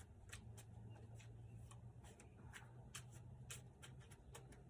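Faint, irregular clicks and light taps of tarot cards being handled and laid down.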